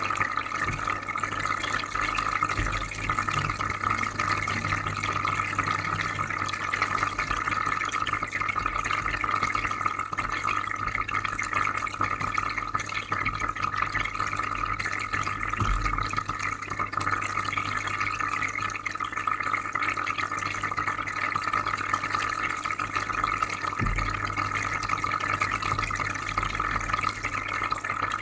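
Aquarium filter running: a steady low hum under continuous bubbling and trickling water, with a few soft low bumps.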